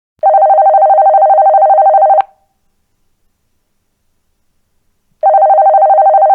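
Landline telephone ringing with a rapid, pulsing ring. A ring of about two seconds is followed by a three-second pause, and the next ring begins near the end.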